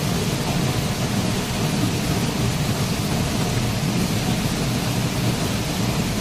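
Waterfall: a steady rush of falling water with a heavy low rumble.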